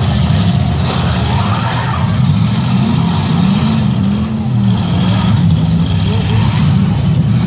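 Demolition derby car engines running and revving, with one engine's pitch wavering up and down around the middle.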